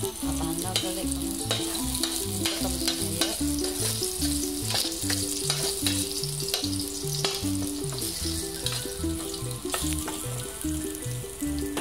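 Diced chicken skin sizzling as it fries in oil in a stainless steel pan, with frequent scrapes and clinks of a metal spatula stirring it against the pan. Background music plays underneath.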